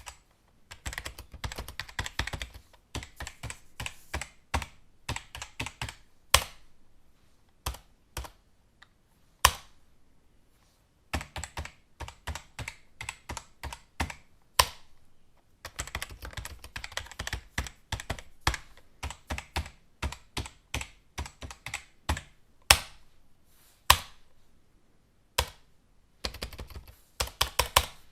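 Computer keyboard being typed on in bursts of quick keystrokes, with short pauses between runs and a few single louder key strikes standing out.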